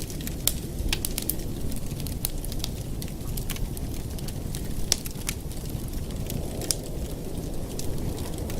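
Wood fire burning in a fireplace: irregular sharp crackles and pops over a steady low rush, with one louder pop about five seconds in.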